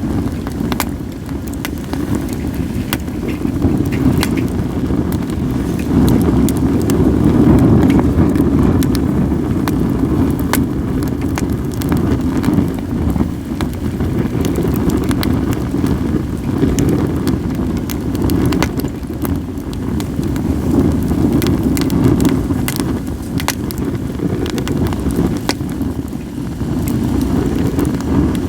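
Wood fire of acacia and other firewood crackling, with frequent sharp pops scattered irregularly, over a steady low rumble of wind on the microphone.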